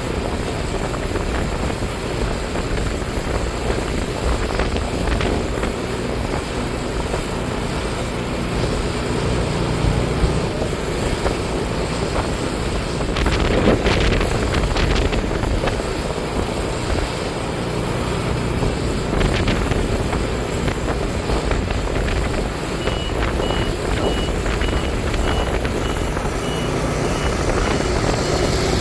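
Iseki TJ75C semi-crawler tractor running steadily under load while working a manure spreader. In the last several seconds a high electronic beep repeats quickly, about two or three times a second.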